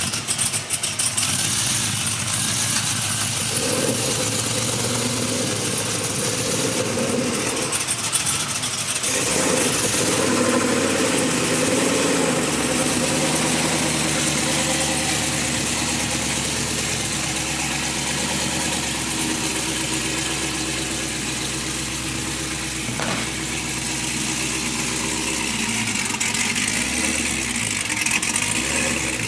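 Car engine running, rising and falling in the first ten seconds or so, then settling to a steady idle.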